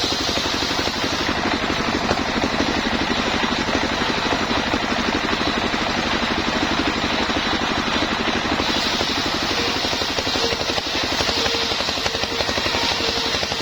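The engine of a homemade sawmill running steadily with a fast, even beat. About two-thirds of the way in, a brighter hiss and a higher steady hum join it.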